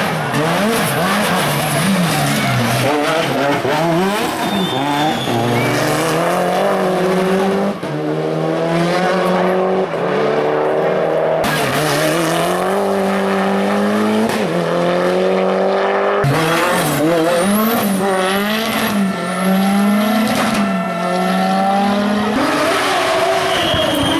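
Race car engines revving hard up through the gears, each climb in pitch broken by a quick drop at the shift, across several back-to-back clips.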